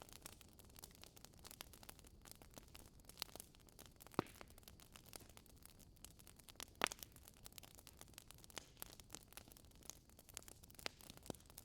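Swedish fire log (Schwedenfeuer) burning quietly: wood crackling with scattered small clicks and a few louder pops, the strongest about four and seven seconds in.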